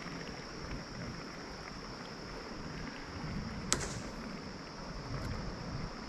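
Steady high-pitched buzz of insects from the riverbanks, with low wind rumble on the microphone and one sharp click about two-thirds of the way through.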